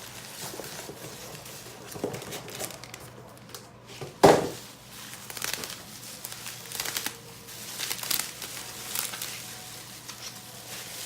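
Packaging being handled and unwrapped by hand: irregular crinkling and tearing rustles, with one louder knock or rustle about four seconds in.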